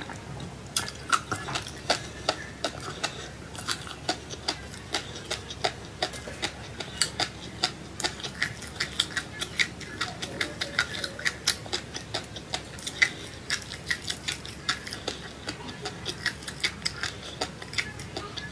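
Crunchy seeds being chewed close to the microphone: a quick, irregular run of small crisp cracks and clicks, several a second.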